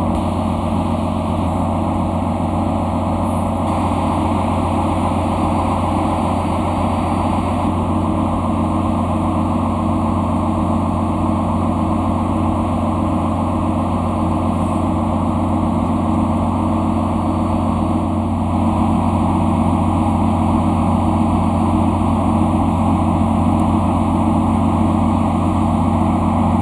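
Ship's engine-room machinery running with a loud, steady low drone that does not change.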